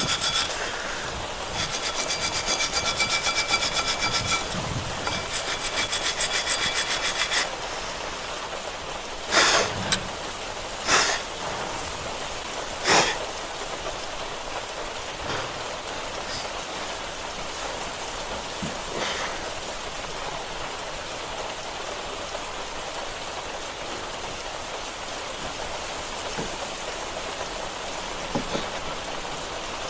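Hand tools at work on a car's rear brake. A fast, even metallic rattle with a ringing tone runs for about seven seconds, then three sharp knocks come a second or two apart over a steady hiss.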